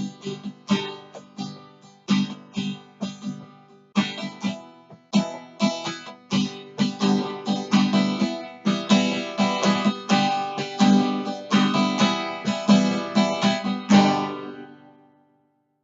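Acoustic guitar playing the song's closing instrumental bars, strummed and picked in a steady rhythm, ending on a last chord about fourteen seconds in that rings out and dies away.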